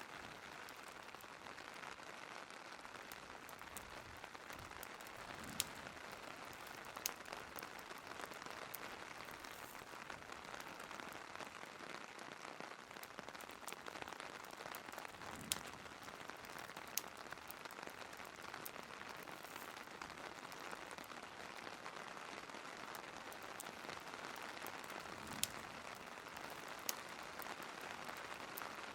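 Steady rain falling, with a few sharp crackling pops from a wood fire every several seconds.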